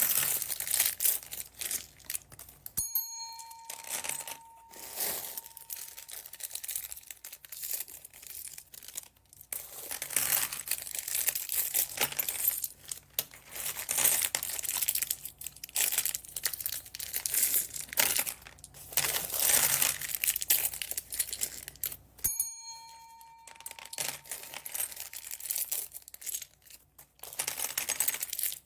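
Plastic bags of beads crinkling and rustling as they are handled and opened, in irregular bursts. Twice, about three seconds in and again near twenty-two seconds, a bright bell-like ding rings out and fades over about two seconds.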